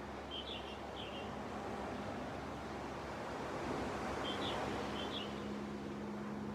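Gentle sea waves washing on the shore as a steady rush that swells about halfway through. A bird gives four short high chirps in two pairs, near the start and again past the middle. A low steady hum comes in after the middle.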